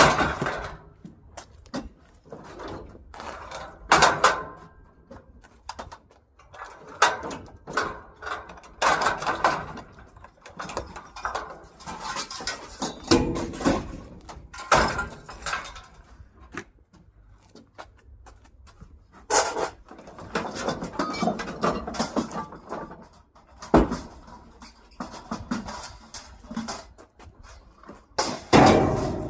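Scrap and junk being unloaded and handled, a long series of irregular knocks, clanks and clatters with several louder bangs.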